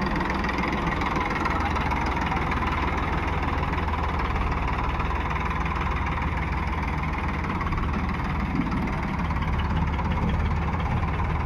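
Diesel engine of heavy machinery running steadily.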